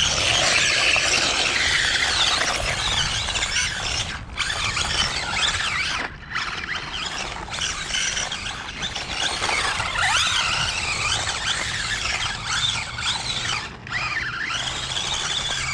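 Electric RC pickup truck's motor and drivetrain whining, the pitch gliding up and down as the throttle is worked while the wheels spin on wet ground doing donuts. The whine cuts out briefly about four seconds in, again around six seconds, and near the end.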